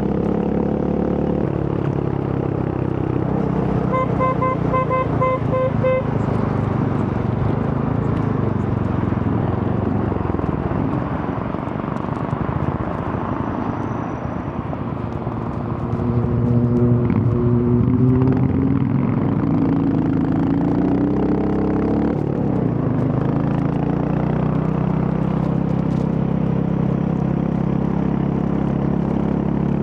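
Royal Enfield Hunter 350's single-cylinder engine running on the move, easing off about twelve seconds in and then rising in pitch as it picks up speed. About four seconds in, a rapid series of beeps.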